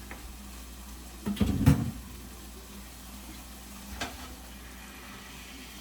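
A short burst of knocking and clattering, typical of kitchen handling, about a second and a half in, then a single lighter click about four seconds in.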